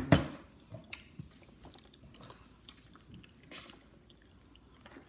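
Chewing of bánh in, a dry, firm Vietnamese pressed rice-flour cake, with a sharp click near the start and another about a second in, then faint small chewing clicks.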